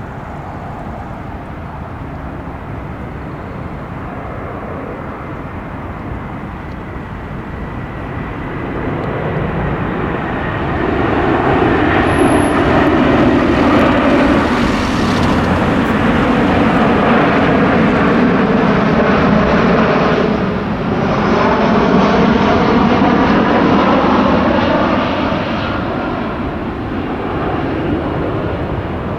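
Airbus A340-300's four jet engines as the airliner passes by. The sound builds from about eight seconds in and stays loud for around fifteen seconds, its tones sliding downward in pitch as it goes past, then fades somewhat near the end.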